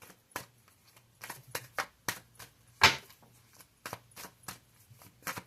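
Tarot cards being shuffled and handled: an irregular run of sharp clicks and snaps, the loudest about three seconds in.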